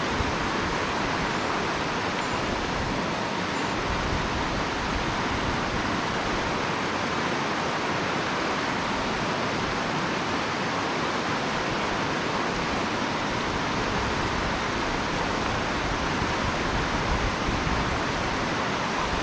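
A mountain stream rushing steadily, running high after rain.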